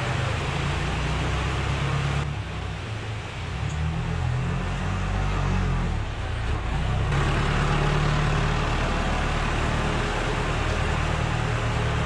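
Tractor engine running, its pitch shifting up and down, under a steady hiss that drops away for a few seconds and returns.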